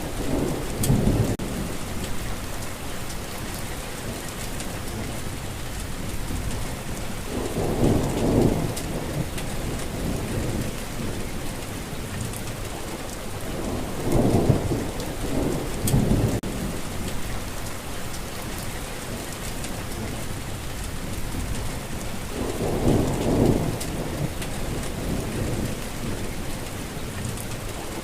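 Steady, heavy rain hissing without a break, with low rolling rumbles of thunder swelling up and fading away four times at intervals of several seconds.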